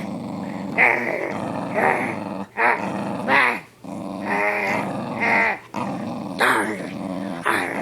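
Dog growling continuously, the growl swelling louder about once a second.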